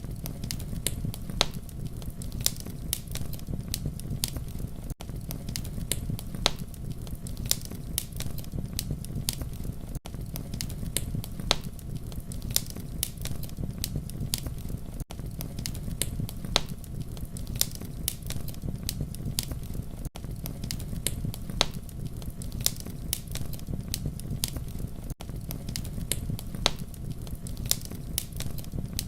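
Campfire crackling: sharp pops and snaps of burning wood over a steady low rumble of flames. It is a short loop that repeats about every five seconds, with a brief dip in level at each seam.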